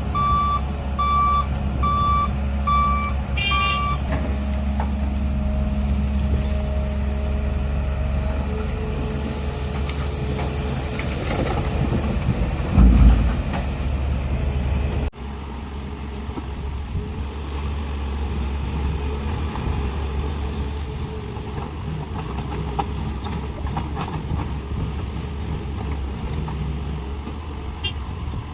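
A truck's reversing alarm beeps evenly, a little under two beeps a second, and stops about four seconds in. Under it, heavy diesel engines of the truck and the hydraulic excavator run steadily, with one heavy thump about halfway through.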